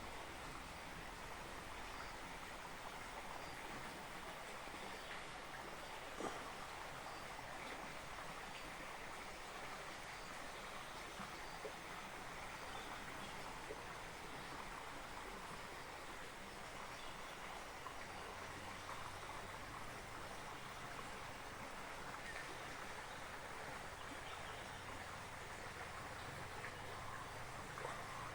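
Steady, even rushing noise of flowing water, with one faint click about six seconds in.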